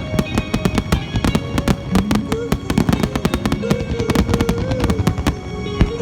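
Fireworks bursting in rapid succession, a dense run of sharp bangs and crackles, over a pop song with held notes.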